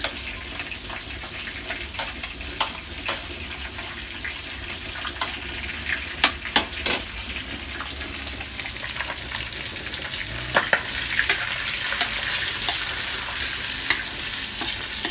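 Chicken and sliced hotdogs sizzling in hot oil in an electric pan, with a metal spoon clinking and scraping against the pan as the hotdogs are tipped in and stirred. The sizzle gets louder about ten seconds in.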